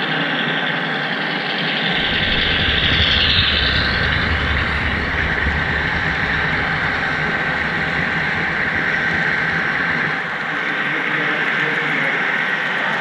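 HO scale model train running on the layout track, heard from aboard the caboose: a steady rolling noise with a thin steady whine, and a deep low rumble that comes in about two seconds in and fades out near the end.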